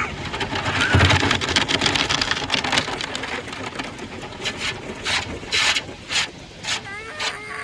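Automatic car wash heard from inside the car: water jets and wash equipment pelting the body in a dense, rapid clatter that is loudest at first and fades, then a handful of separate short spray bursts near the end.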